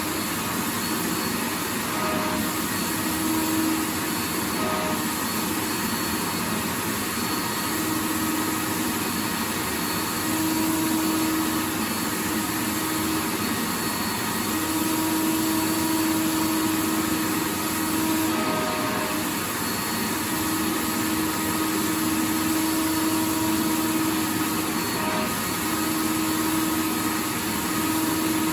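Vacuum cleaner running continuously: a steady rush of air over a motor hum whose low tone fades in and out every few seconds.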